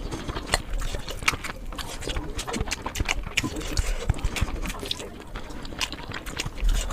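Close-miked eating sounds: a person chewing with a rapid, irregular run of wet mouth clicks and smacks.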